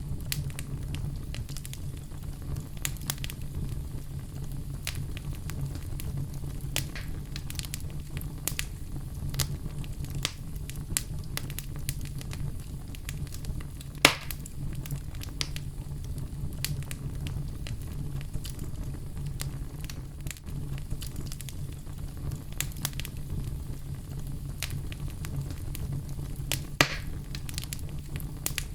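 Oak logs burning in a fireplace: a steady low rumble of flame with frequent small crackles, and two louder sharp pops, one about halfway through and one near the end.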